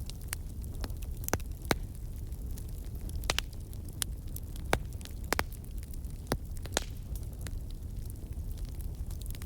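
Campfire burning: wood crackling and popping with sharp, irregular snaps over a steady low rumble of the flames.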